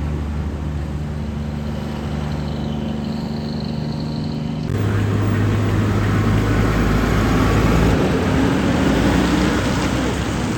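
Heavy truck diesel engines running: a steady low hum at first, then, about halfway through, an abrupt switch to a louder, rougher engine sound with more road noise, as of a tractor-trailer working close by.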